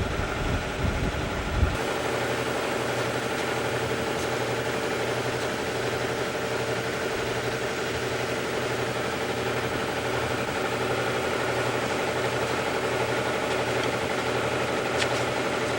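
An engine idling steadily at a constant speed, after a rougher low rumble that changes abruptly about two seconds in.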